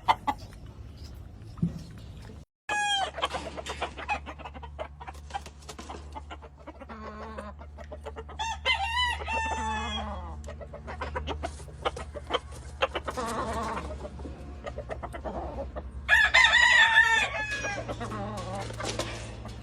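Roosters crowing several times, the loudest crow near the end, with hens clucking in between. A steady low hum runs under them.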